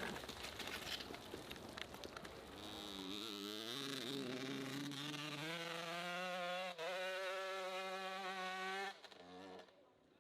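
Motorcycle engine buzzing at high revs. It rises in pitch, holds fairly steady with a slight wavering, then cuts off suddenly near the end.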